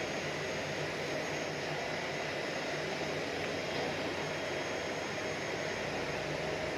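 Steady jet-aircraft noise on an airport apron: a constant rumble with a thin, high whine held on one pitch.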